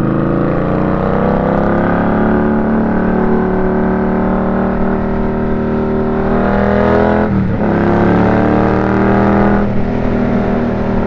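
Indian Scout motorcycle's V-twin engine under way, its pitch rising as it accelerates, then holding steady. About six seconds in it climbs again and drops sharply at a gear change, with another brief dip near the end.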